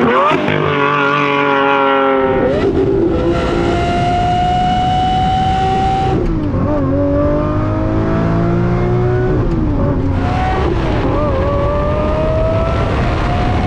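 Lamborghini Murciélago SV's 6.5-litre V12 pulling hard under acceleration. Its pitch climbs steadily in each gear and drops sharply at each of several quick upshifts.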